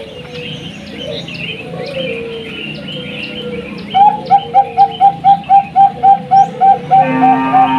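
Perkutut bangkok (zebra dove) cooing: a fast, even run of short coo notes, about four a second, starting about halfway. Small birds chirp throughout, and a harsher rasping call comes in near the end.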